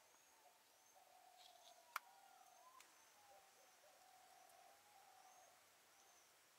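Near silence with faint bird calls: low, held hooting notes and short high chirps. A single sharp click about two seconds in.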